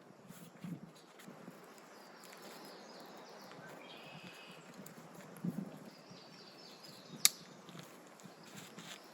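Quiet outdoor nature ambience with faint bird calls, and one sharp click about seven seconds in.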